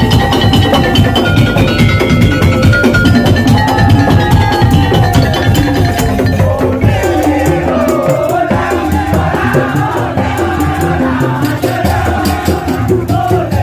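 A Madurese tong-tong (ul-daul) percussion ensemble playing: dense beating of wooden slit drums and drums under a melody. About seven seconds in, the low drums drop out and wavering melodic lines carry on over lighter percussion.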